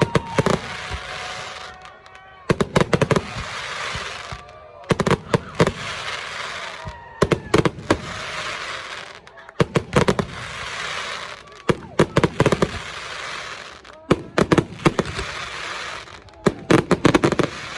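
Fireworks going off in a repeating pattern: a quick volley of sharp bangs about every two and a half seconds, each followed by a crackling hiss that dies away.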